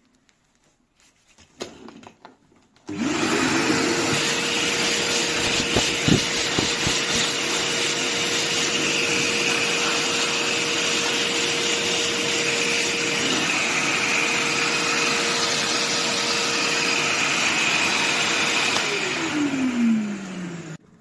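Kärcher WD 4 S wet/dry vacuum cleaner switched on about three seconds in: the motor spins up to a steady whine over a loud rush of suction air. A couple of sharp knocks come through around six seconds. Near the end it is switched off and the whine falls in pitch as the motor spins down.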